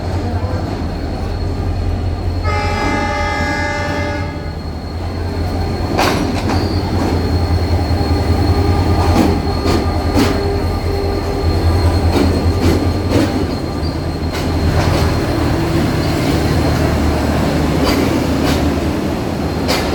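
Passenger train pulling into a station behind a Pakistan Railways diesel locomotive: a steady low engine drone, a horn blast lasting about two seconds that starts about two and a half seconds in, then repeated clacks and knocks of wheels over rail joints as the coaches roll past.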